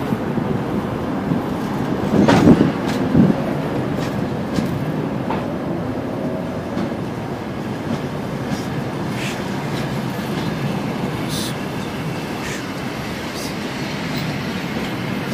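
Passenger coaches of an arriving train rolling past: a steady rumble of wheels on rail with scattered clicks over the rail joints, loudest about two to three seconds in.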